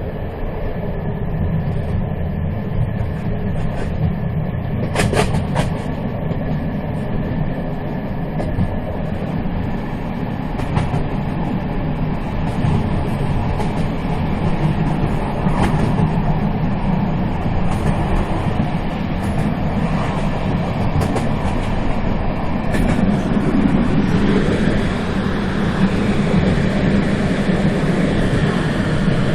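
Moving train running along the track: a steady low rumble with a few sharp clicks, the first about five seconds in.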